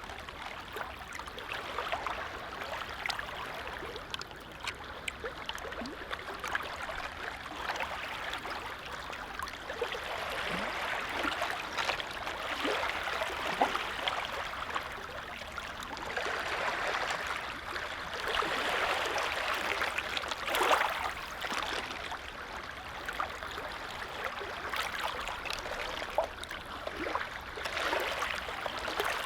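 Gentle lake waves lapping: a steady watery wash dotted with small splashes, swelling and easing several times and loudest about twenty seconds in.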